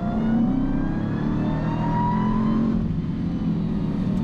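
Car engine running under acceleration, its pitch climbing gently over the first couple of seconds and then holding.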